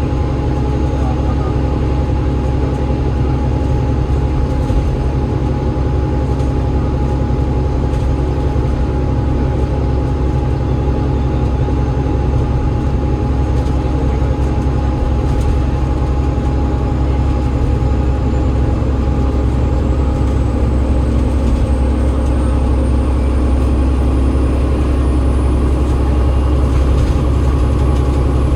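Alexander Dennis Enviro500 MMC double-decker bus running steadily on the road, its Cummins ISL8.9 diesel and ZF EcoLife automatic drivetrain making a steady deep drone with a steady hum above it. Over the last third a faint high whine slowly rises in pitch and the sound grows a little louder.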